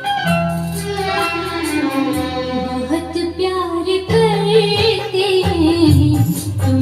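A song played from a vinyl record on a Denon record player: a sung melody with a wavering, sustained line over plucked strings and steady bass notes.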